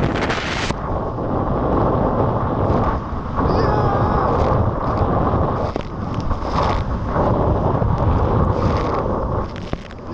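Heavy wind buffeting the microphone during a fast jet-ski run, with rushing water beneath it. The sound turns duller about a second in, and a faint whine comes through around four seconds in.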